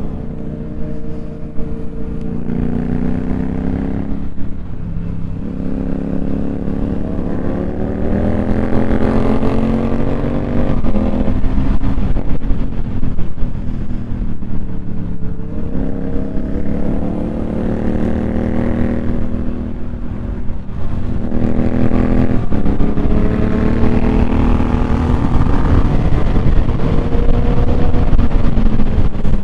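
Motorcycle engine pulling hard through the gears. The pitch climbs for a few seconds, drops sharply at each upshift and climbs again, about six times.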